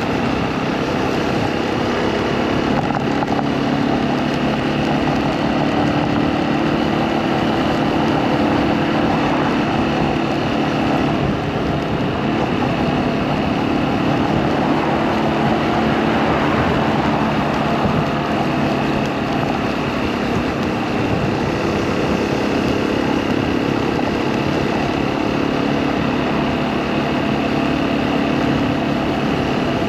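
Motorcycle engine running steadily while riding, its pitch drifting up and down a little over a steady rush of noise.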